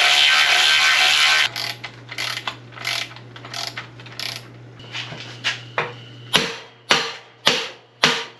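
Ratchet wrench tightening the nut on the all-thread of a clamshell bearing puller. It opens with a fast, continuous run of ratcheting that stops about 1.5 s in. Separate clicks then follow about every half second, louder and sharper near the end as the nut tightens down. A steady low hum runs underneath.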